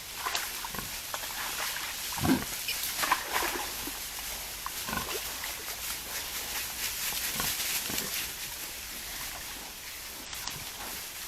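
Wild boars grunting: short, scattered grunts, the loudest about two seconds in, over a steady hiss.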